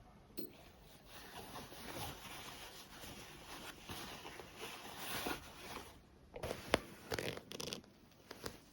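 Fabric rustling and being handled, with a few sharp clicks about six and a half to eight seconds in.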